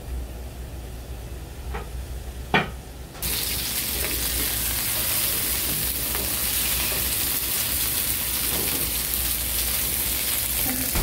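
Jeju duruchigi (pork stir-fry) in a hot pan: after a low hum and two short clicks, a loud, steady sizzle sets in suddenly about three seconds in and keeps going.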